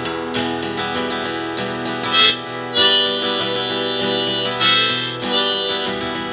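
Blues song intro: an acoustic guitar is strummed, and a harmonica comes in with long wailing notes about two seconds in.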